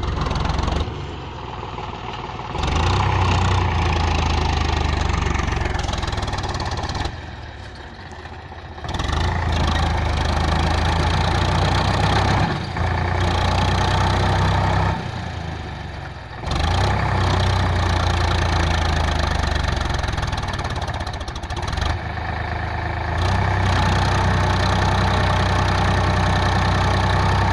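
Tractor diesel engine running hard, dropping back to a quieter, lower note for a second or two several times, then picking up again.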